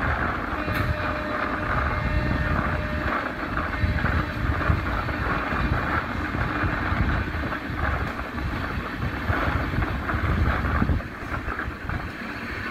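Rushing wind and the running rumble of a fast Indian Railways passenger train, heard from its open doorway; the low rumble eases about eleven seconds in.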